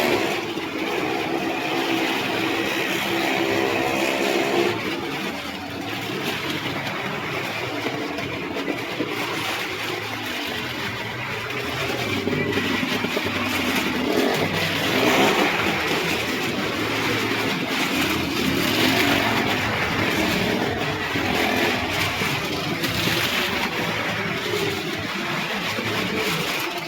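Stunt vehicle engines running and revving, the level swelling and easing without a break.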